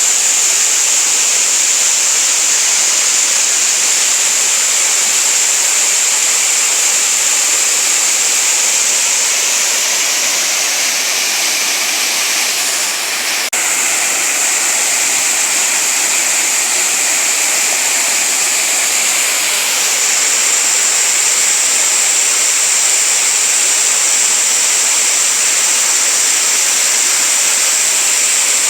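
Small waterfall with water falling and rushing in a loud, steady, even stream of noise, with a faint click and a slight dip about halfway through.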